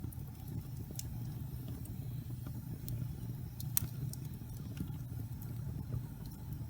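Wood fire burning in a fireplace: scattered sharp crackles and pops over a steady low rumble, the loudest pop a little past the middle.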